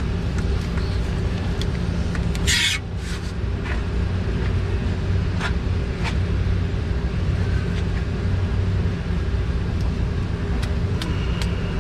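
A steady engine hum runs throughout, with small clicks and knocks of hand work on the propane hose fittings. A short loud hiss comes about two and a half seconds in.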